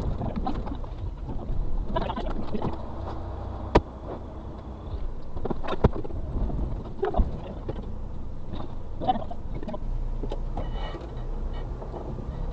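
Suzuki Carry kei truck's 660cc engine running, heard from inside the cab while crawling over a rough forest track. Sharp knocks and clunks come through several times.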